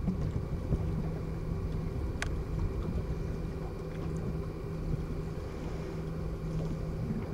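Newly fitted two-stroke boat engine running steadily while it is broken in, a constant hum with wind on the microphone.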